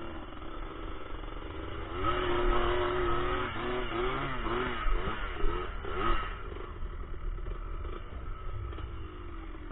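Yamaha Blaster 200's two-stroke single-cylinder engine running. About two seconds in the revs rise, then rise and fall several times before settling back to a lower, steady note.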